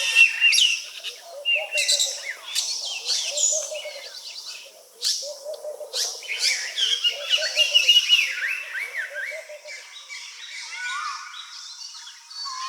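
A chorus of several wild birds calling and singing, with quick overlapping chirps and whistled notes over a lower repeated call. About ten seconds in it thins to fainter calls with a few rising whistled notes.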